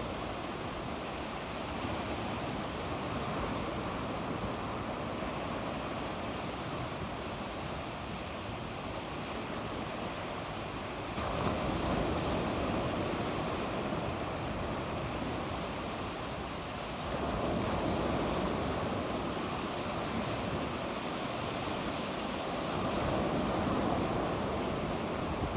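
Sea waves breaking and washing on a beach, a continuous surf noise that swells as a wave comes in about 11 seconds in and again about 17 seconds in, with some wind on the microphone.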